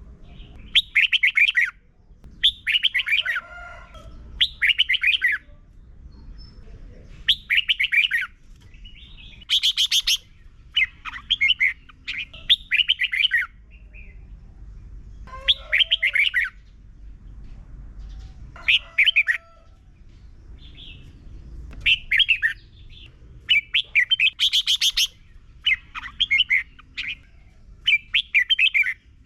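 Red-whiskered bulbul singing short, loud warbled phrases, one every one to three seconds.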